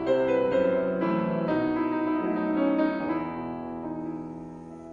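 Solo piano playing a slow interlude of held chords between the singer's phrases, growing softer toward the end.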